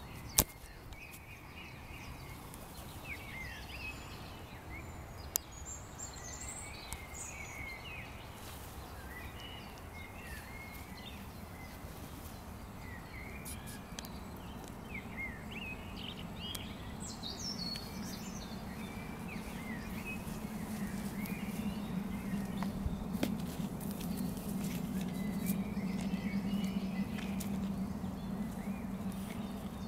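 Birds chirping in the background, many short calls throughout, over a low steady hum that grows louder from about halfway. Two sharp clicks come in the first few seconds, the first the loudest sound.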